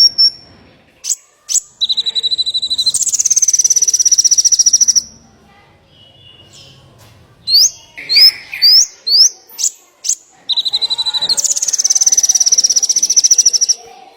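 Small songbird singing in two phrases. Each phrase is a few sharp, rising chirps followed by a long, fast, high-pitched trill of about three seconds, and there is a short pause between the phrases.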